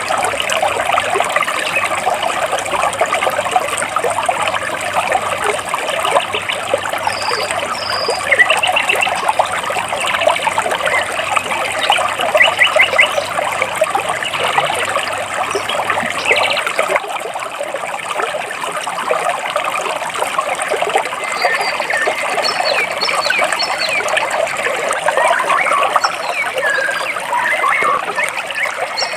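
Water running and splashing between large rocks, a steady trickling rush, with birds chirping now and then over it, including a quick trill about halfway through and several short chirps near the end.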